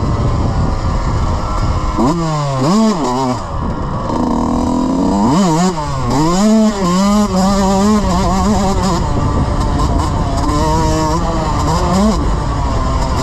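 Dirt bike engine revving hard, its pitch swinging rapidly up and down with the throttle in several quick surges, then holding a steadier note for a few seconds before more revs near the end.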